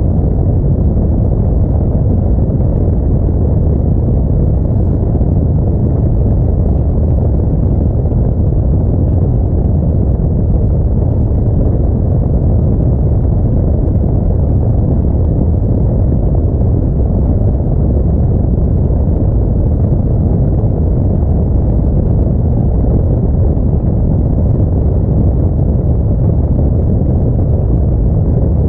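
Steady low rumble of an Audi A4 driving along a snowy road: tyre, engine and wind noise with no change in pace.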